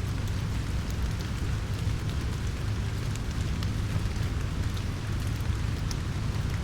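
Steady rain falling in a forest, with scattered drops ticking on leaves and a steady low rumble underneath.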